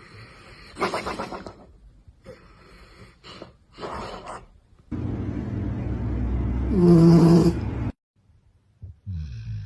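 Sleeping dogs snoring and snuffling in several short, separate bursts, with abrupt changes between them.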